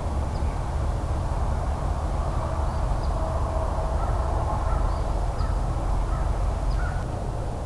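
Birds calling faintly a few times over a steady low rumble.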